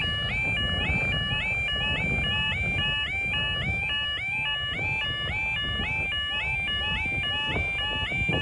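Level crossing warning alarms sounding: a rapid repeating rising yelp, about three a second, from more than one unit slightly out of step. Wind rumbles on the microphone underneath.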